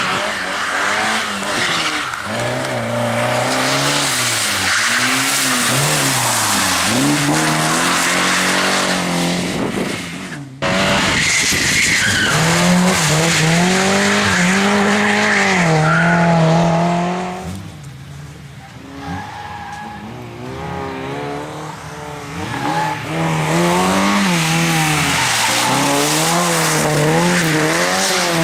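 Rally cars being driven hard, engines revving up and down over and over with tyres squealing and skidding. There is an abrupt cut about ten seconds in, and a quieter stretch later on before the engine noise rises again.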